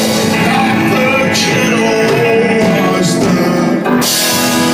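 Live country-rock band playing between sung lines, with guitar to the fore and cymbal crashes at the start and about four seconds in.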